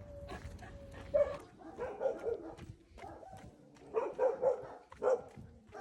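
Dog coughing in short clusters of hacks, around two, four and five seconds in, after a steady high tone that stops about a second in.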